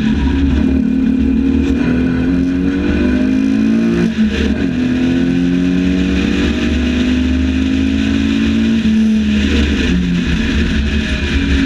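Lotus 7 replica's engine pulling hard under acceleration, its pitch climbing steadily, with a brief dip and drop in pitch at an upshift about four seconds in. The pitch climbs again and falls back once more near nine seconds.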